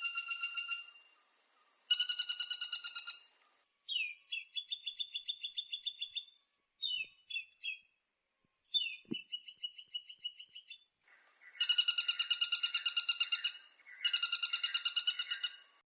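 Woodpecker calls: a run of rapid rattling series, each a fast string of about ten sharp notes a second lasting one to three seconds, with short gaps between series and some series pitched and shaped differently from others.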